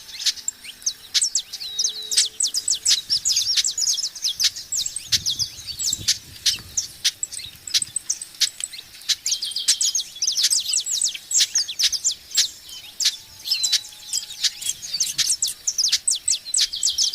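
Birds chirping: a dense, unbroken chatter of short high chirps, several birds calling at once.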